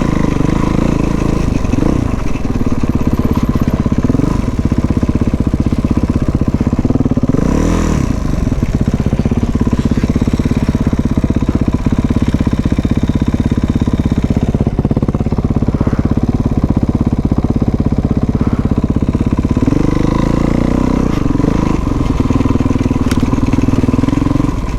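Dirt bike engine running under way, its revs rising and falling as the throttle is worked, with sharper rises and drops about seven seconds in and again near the end.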